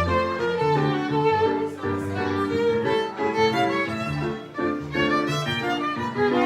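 Violin and piano playing a lively Brazilian choro together: the violin carries a quick running melody over the piano's rhythmic bass and chords.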